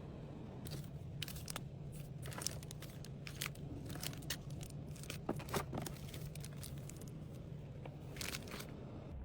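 Plastic packaging crinkling and rustling as small packed goods are handled, with scattered taps and crackles over a steady low hum.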